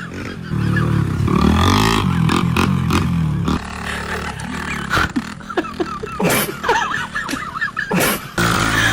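Motorcycle engine revving with a low, sputtering note that rises and falls for about three seconds, then runs on more quietly.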